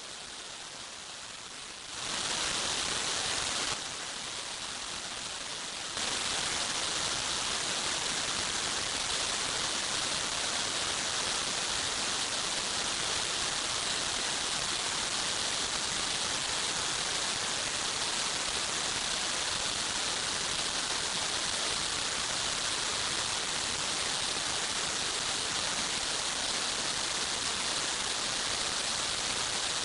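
Steady, even hiss with no distinct events, jumping up abruptly in level about two seconds in and again about six seconds in, then holding steady.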